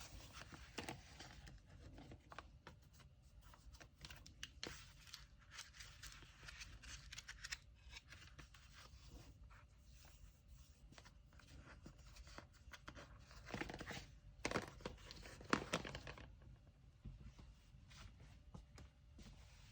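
Paper and tape being handled and torn while wrapping a package: soft rustling and tearing, with a few louder tearing sounds about two-thirds of the way in.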